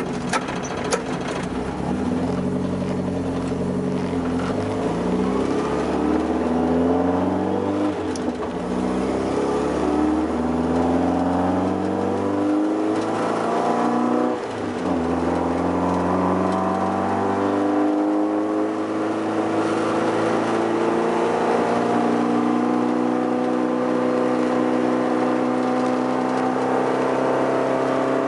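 TA22 Toyota Celica race car's 18R-G twin-cam four-cylinder engine accelerating hard, its pitch climbing and dropping back at each gear change several times, then running at high, fairly steady revs for the second half.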